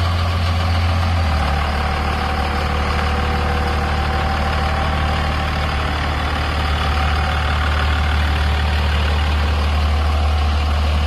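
Engine of a pigeon training truck idling steadily, its low hum settling slightly lower about a second and a half in.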